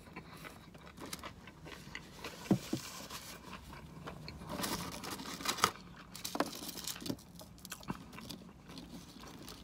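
Close-miked chewing of a bite of bacon cheeseburger: scattered soft smacks and clicks, busiest around the middle.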